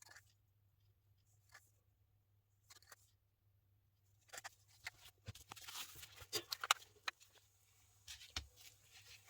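Small clicks, taps and rustles of crafting materials being handled on a work surface, sparse at first and then coming in a busy cluster from about halfway through.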